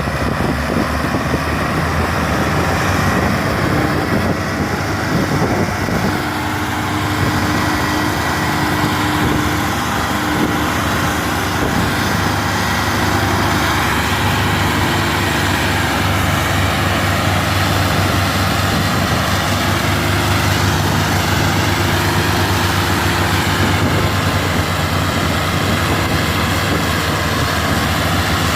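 Tractor diesel engine running steadily, with no break in its sound.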